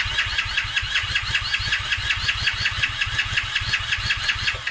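Superlite motorcycle's electric starter cranking the engine in a rapid, even rhythm for about five seconds without the engine catching, then cutting off abruptly.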